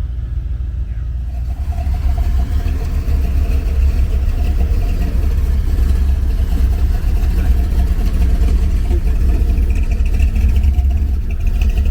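A car engine running with a steady deep rumble, its pitch drifting slightly.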